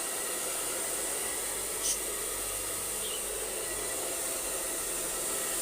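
Pet grooming blower running steadily, a continuous high hiss of blowing air, with one brief sharp tick about two seconds in.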